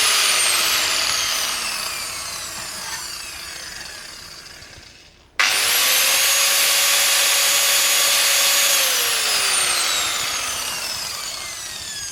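Small high-speed power cutting tool run twice to cut through a steel throttle cable. The first run is already winding down with falling pitch. The second starts suddenly about five seconds in, holds a steady whine for about three seconds, then winds down with falling pitch near the end.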